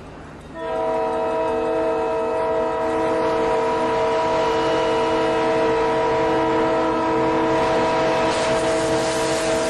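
Train horn sounding one long, steady multi-tone chord that starts about half a second in, over the rumble of the train; a rushing noise grows near the end.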